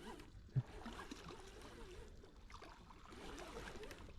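Faint splashing and trickling water as a hooked catfish is drawn in at the water's edge, with one short low thump about half a second in.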